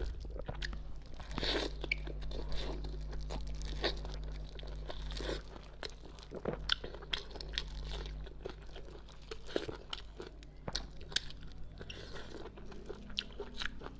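Close-miked eating: wet chewing with many short, sharp crunches, from braised fish whose bones are crunchy cartilage being pulled apart by hand and chewed.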